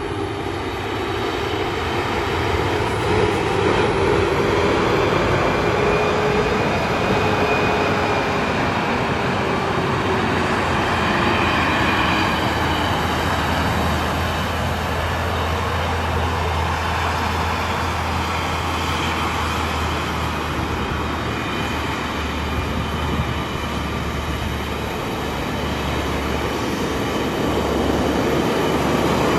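Heavy-duty dump truck running and driving, a steady loud engine and road noise with a low hum; a droning tone wavers up and down in pitch through the first ten seconds or so.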